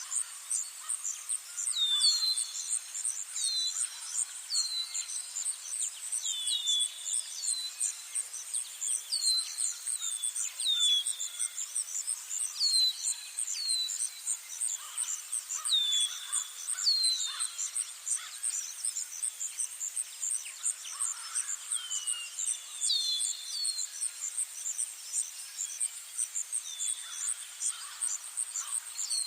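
Insects, such as crickets, keep up a steady, high, rapidly pulsing trill. Over it a bird repeats short chirps that drop in pitch, about one a second, with a pause of a few seconds past the middle.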